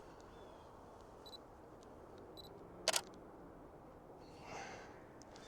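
Canon DSLR shutter firing once about three seconds in, a quick double click of the mirror and shutter.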